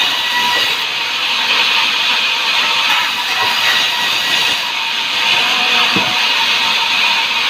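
Sawmill saw cutting through timber: a steady, loud hissing rush with faint steady whining tones.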